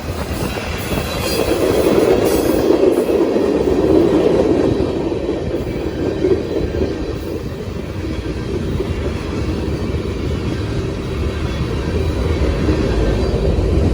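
A train rolling past on its rails: a steady, loud rumble of wheels and cars.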